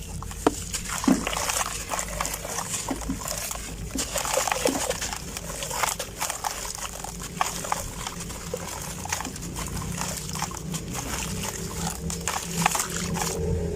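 Dry sand-cement clumps crunching and crumbling, with irregular sharp cracks and a gritty crackle throughout, over a low steady hum.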